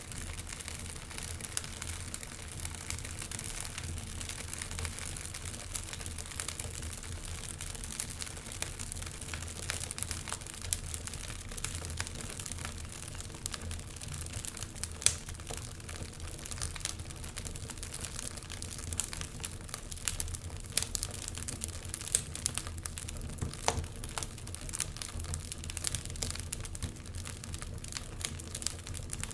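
Wood fire in a fireplace crackling, with frequent irregular sharp pops and snaps over a steady low rumble; one louder snap comes about halfway through.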